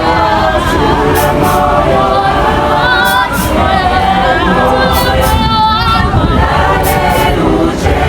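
A group of voices singing together in harmony, choir-style, with pairs of sharp percussive hits about every two seconds.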